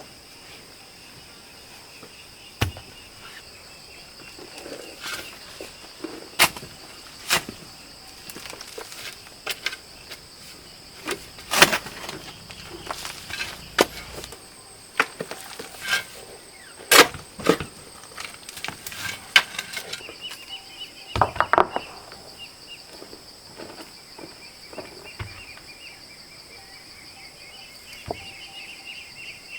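Steady high-pitched drone of insects, with scattered sharp knocks and clicks, the loudest near the middle and a quick cluster about two-thirds of the way through.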